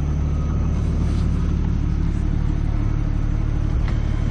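1998 Jeep Cherokee XJ engine idling with a steady low hum, and a single light click near the end.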